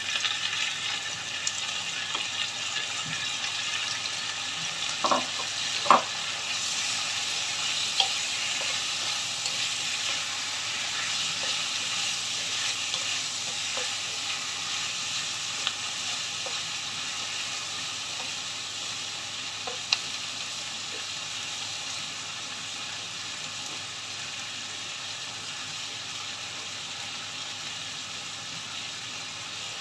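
Chicken wings with onion and ginger frying in a wok: a steady sizzle that eases a little in the second half. A few sharp knocks, the loudest about five and six seconds in, as a wooden spatula stirs the pieces against the pan.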